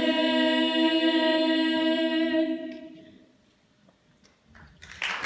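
Unaccompanied voice singing one long held note that slides up slightly at the start and fades out about three seconds in, ending the song; after a moment of near silence, applause begins right at the end.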